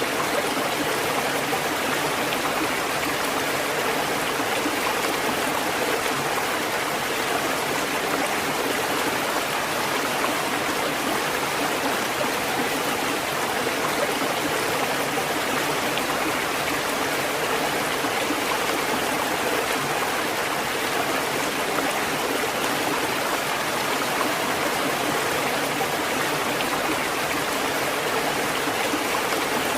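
Steady rushing water, an even unbroken wash of noise with no distinct rise and fall of individual waves.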